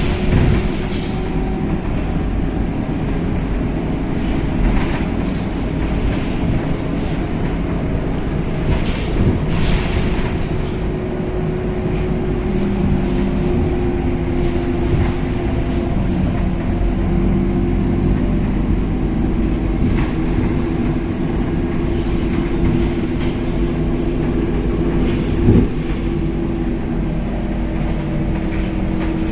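Interior of a Scania K270UB city bus under way: a steady engine and drivetrain drone with road noise, broken by occasional knocks and rattles from the body, the loudest about 25 seconds in.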